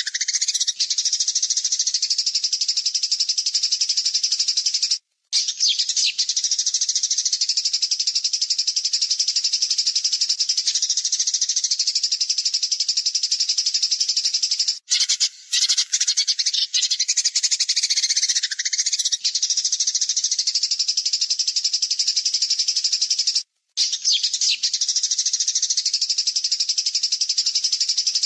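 Songbird song for a masteran training track: long runs of fast, harsh, rattling notes, the rough 'tembakan' bursts used to teach songbirds, with short breaks about five, fifteen and twenty-three seconds in.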